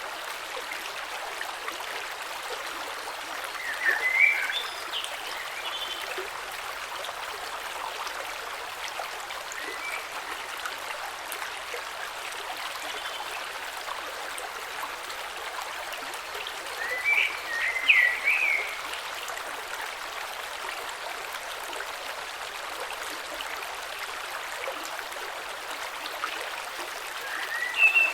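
A gentle creek flowing over stones, a steady rush of water. Three times an animal gives a quick cluster of short, chirping calls above it: a few seconds in, about two-thirds of the way through, and again near the end.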